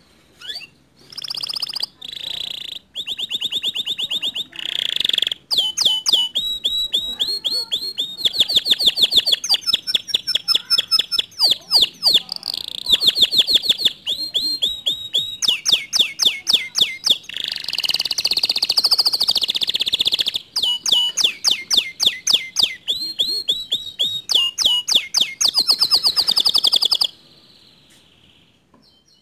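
Domestic canary singing a long song of fast trills and rapidly repeated chirps, stopping about 27 seconds in.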